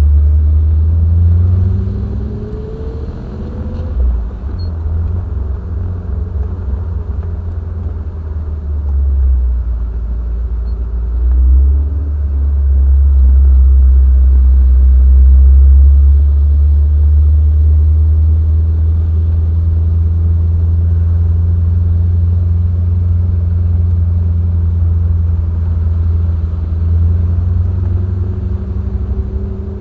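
Triumph TR7's 4.6-litre V8 engine driving on the road, with a heavy low rumble. The engine note climbs under acceleration over the first few seconds, drops back, then rises again and holds fairly steady as the car cruises.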